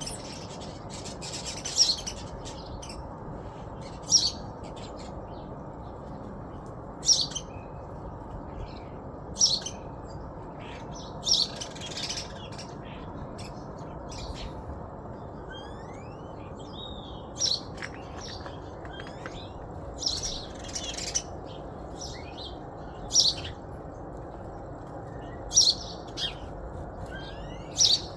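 Small birds chirping, short high calls every two or three seconds with a few thin whistled glides in between, over a steady low rumble.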